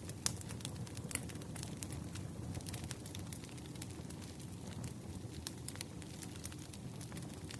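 Firewood burning: a steady low rumble of flames with frequent, irregular sharp crackles and pops, the strongest pop near the start.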